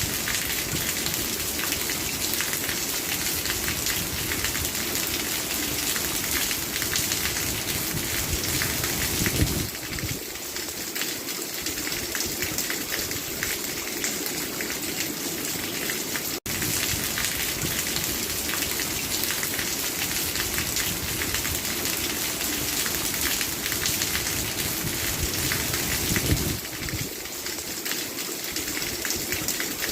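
Steady heavy rainfall, a dense, even patter of drops. It eases slightly about ten seconds in and again near the end, and cuts out for an instant about halfway through.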